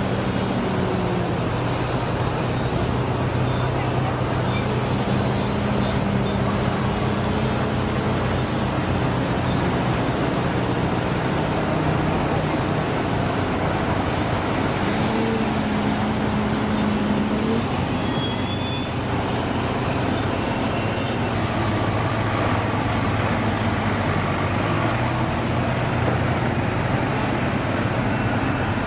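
Engines of heavy trucks and construction machines running steadily, their note stepping up and down now and then.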